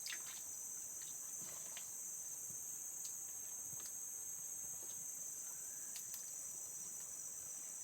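Steady high-pitched chorus of insects trilling without a break, with a few faint clicks.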